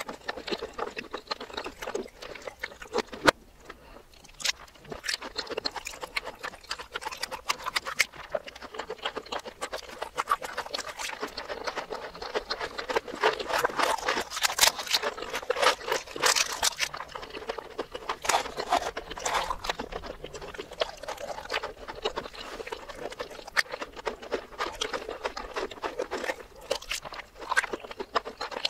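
Close-miked chewing and mouth sounds played in reverse: wet smacking and crackly clicks from eating sausage and fried, breaded mozzarella balls in cheese sauce. There is one sharp click about three seconds in.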